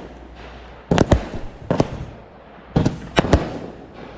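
Consumer firework cakes firing, with sharp bangs in small quick groups about a second apart and a crackling tail between the reports.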